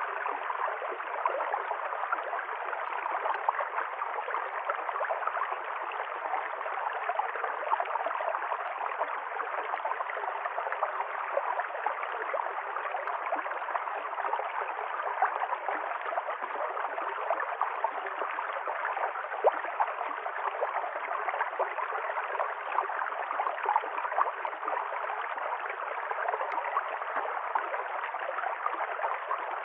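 A river stream flowing steadily: a continuous rush of running water with little bass.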